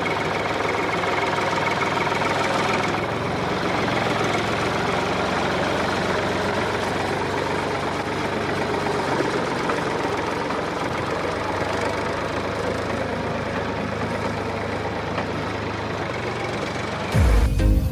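Steady running noise of a homemade model tractor's small motor and drive. Electronic music cuts in suddenly near the end.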